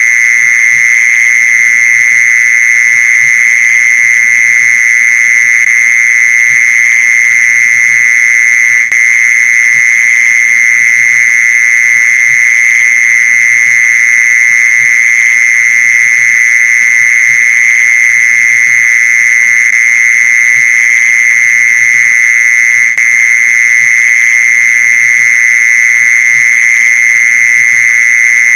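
Mole cricket song: one continuous, steady, high trill with no pauses, dipping for an instant twice.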